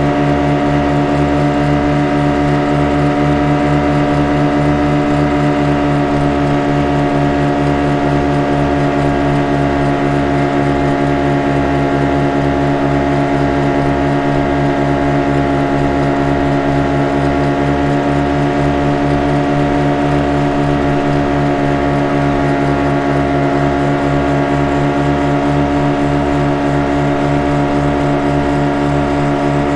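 Speed boat engine running at a steady speed, an unchanging engine note with a fast, even pulsing in its low notes.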